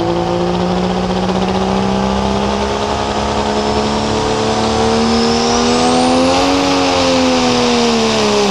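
Turbocharged diesel pickup engine at full throttle pulling a sled, its revs climbing slowly with a high turbo whistle rising over them. The revs sag again over the last two seconds or so.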